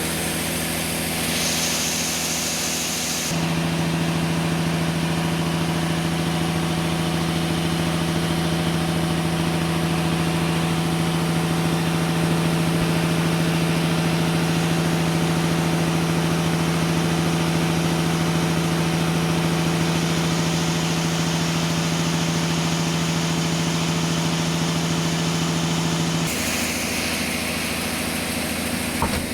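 Sawmill machinery running steadily with a continuous hum. The pitch settles into one strong steady tone about three seconds in and shifts again near the end.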